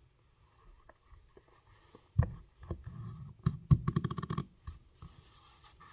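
A knife being handled in a stiff new leather sheath: a sharp knock about two seconds in, then a quick run of clicks and rubbing a second later.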